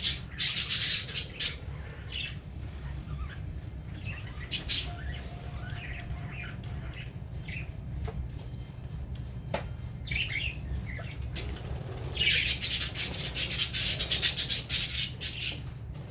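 Budgerigars chirping and chattering, with louder flurries near the start and again for a few seconds near the end.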